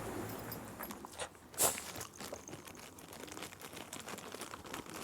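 A Shiba Inu crunching and chewing a hard treat: a run of small crunches, with one sharp, louder crunch about one and a half seconds in.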